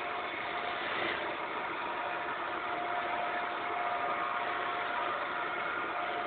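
Wood lathe running steadily: a constant whirring hiss with a faint steady hum in it.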